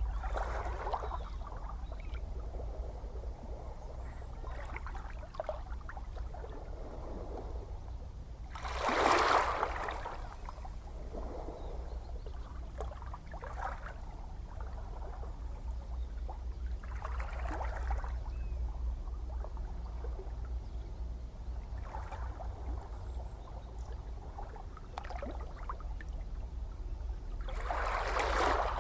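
Ocean waves breaking and washing in over a steady low rumble of surf, a swell of rushing water rising and fading about every nine seconds, the loudest one about nine seconds in.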